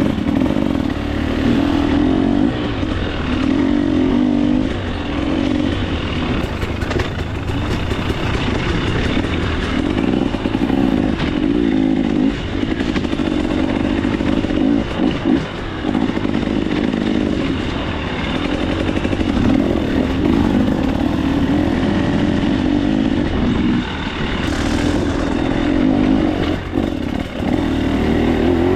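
KTM 300 XC-W dirt bike's single-cylinder two-stroke engine, revs rising and falling every second or two as the throttle is worked along a trail, with scattered knocks and rattles from the bike.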